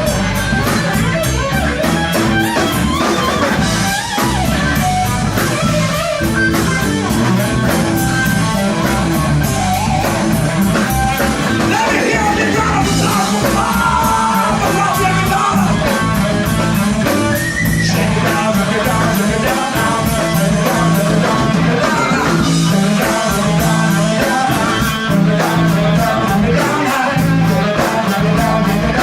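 Live band playing a funk song: electric guitar, bass guitar and drum kit, with sung vocals at times.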